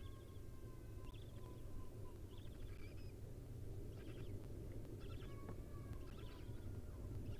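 Faint bird calls: thin whistled notes, some held and some stepping in pitch, and short chirps, over a steady low hum, with a few faint clicks about two-thirds of the way through.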